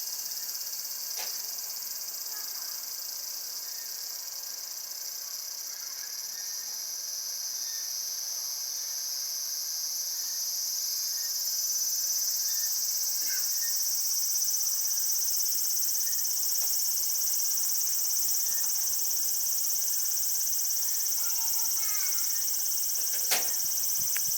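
A chorus of cicadas singing, a dense, steady, high-pitched buzz that swells louder about halfway through.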